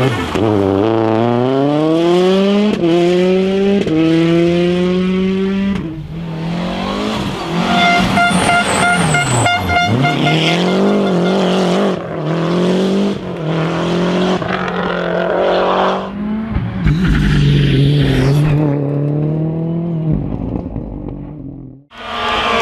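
Rally cars at full throttle on a stage, engines climbing in pitch and dropping at each upshift, in several short passes one after another.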